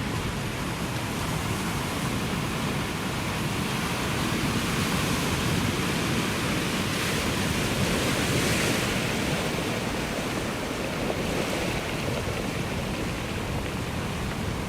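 Ocean surf washing steadily against the shore, with one wave swelling louder for a couple of seconds about halfway through before settling back.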